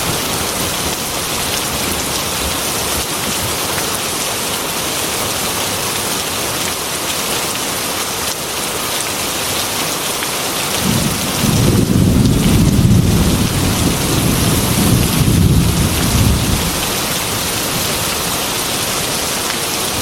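Heavy rain beating steadily on a glass window. About halfway through, a deep rolling thunder rumble builds in and lasts some five seconds before it fades back under the rain.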